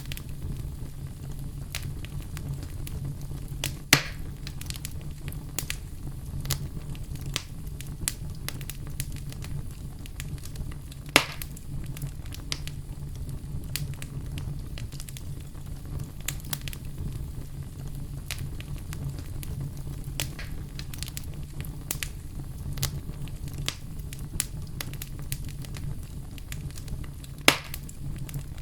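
Wood bonfire burning: a steady low rumble of flames with constant small crackles and three louder pops, about four seconds in, about eleven seconds in, and near the end.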